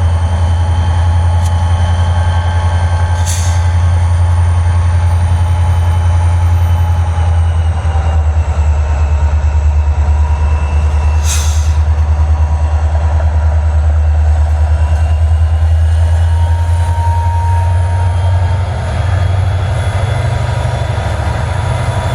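Freight train cars rolling past close by with a loud, steady low rumble and faint high squealing tones from the wheels. Two brief high-pitched bursts cut through about three and eleven seconds in.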